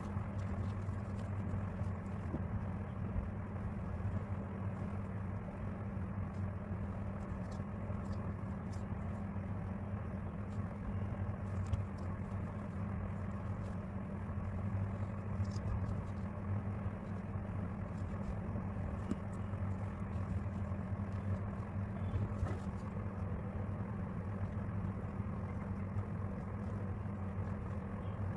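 A steady low background hum with even noise, constant throughout, with faint scattered small clicks of paper pieces being handled and stuck together.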